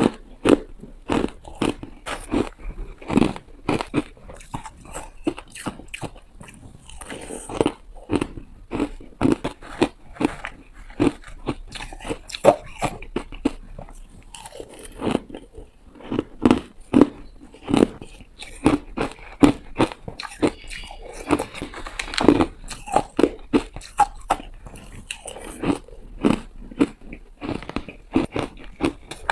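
A person biting and crunching through hard ice, close to the microphone: a rapid, uneven run of sharp crunches, several a second, with short pauses between mouthfuls.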